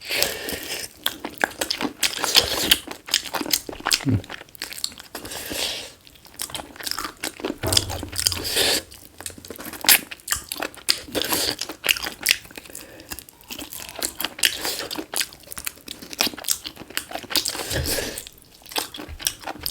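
Close-miked chewing and crunching of cooked black chicken feet: a dense, irregular run of sharp crunches and crackles.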